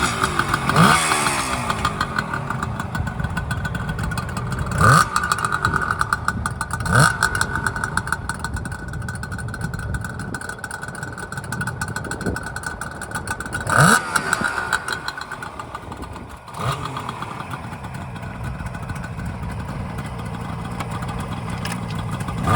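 Kawasaki 250SS S1A's air-cooled two-stroke triple idling, blipped on the throttle four times, each rev rising sharply and falling back to idle, about a second in, at about five and seven seconds, and again near fourteen seconds.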